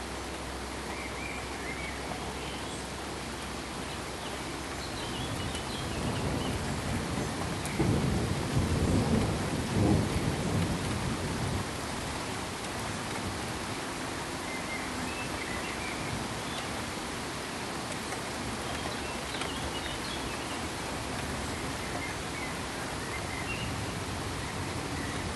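Steady pink noise hiss, with a deep rumble that swells about six seconds in, is loudest a couple of seconds later and fades out by about twelve seconds.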